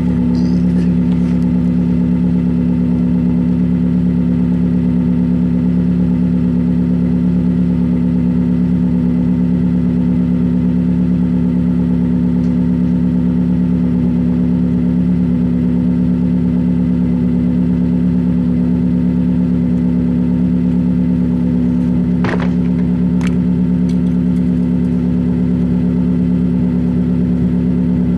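2020 Toyota Corolla LE four-cylinder engine idling cold through a straight-piped exhaust, a steady low drone at a constant pitch. The engine is being left to warm up, not revved.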